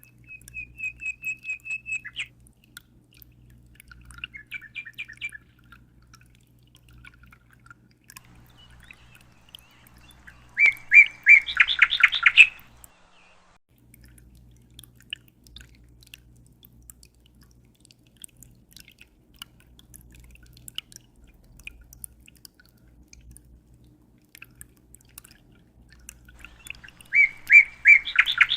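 Small songbird singing in separate phrases of quick repeated trilled notes: a soft trill at the start, a short phrase a few seconds later, and loud, fast phrases about eleven seconds in and again near the end. A faint steady low hum runs underneath.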